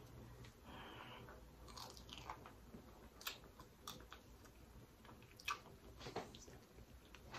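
A person biting and chewing seafood close to the microphone: quiet wet chewing with a few sharp mouth clicks and smacks, the loudest about five and a half seconds in.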